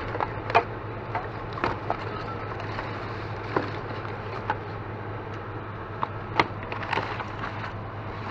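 Scattered knocks, clicks and light clatters at irregular intervals as objects are handled and shifted while rummaging through a pile of discarded household items, over a steady low hum.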